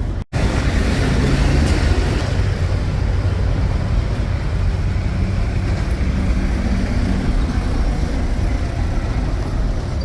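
Street traffic: a motor vehicle's engine rumbling close by amid steady road noise.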